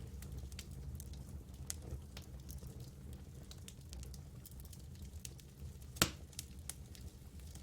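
Wood campfire crackling: scattered small snaps and ticks over a low rumble, with one louder pop about six seconds in.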